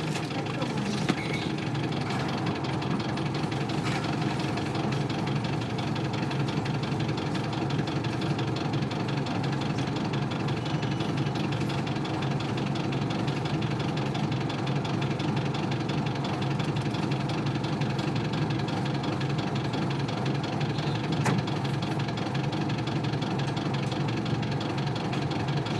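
Isuzu Cubic city bus's 8PE1 V8 diesel engine running steadily with no revving, an engine whose idle is very unstable.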